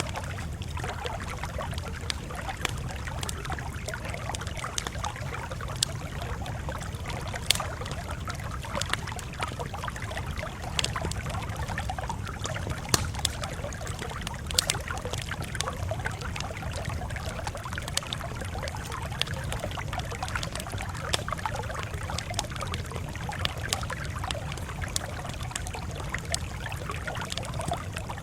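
Wood fire crackling: irregular sharp pops and snaps, several every second, over a steady low rumble and hiss of burning.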